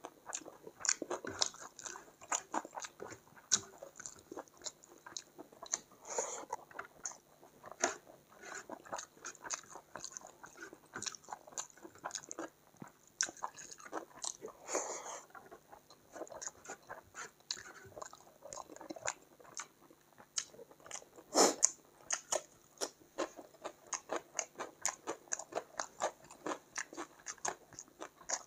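Close-miked chewing and wet mouth sounds of rice and chicken curry eaten by hand, a dense run of short smacks and clicks, with one louder click about 21 seconds in.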